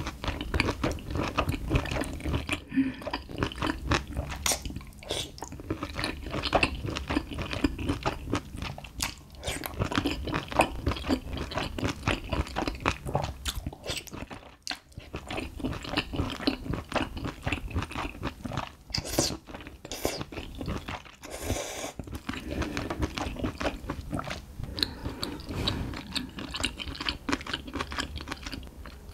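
Close-miked chewing and biting of spicy stir-fried whole small octopus (nakji bokkeum), mouthful after mouthful, heard as a dense run of quick mouth clicks.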